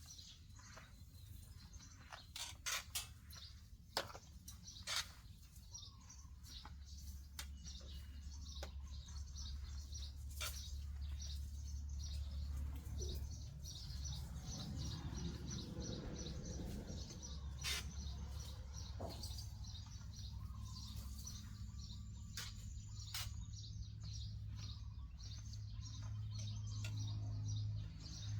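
Small birds chirping over and over in short high calls, with scattered sharp clicks and a low steady hum underneath.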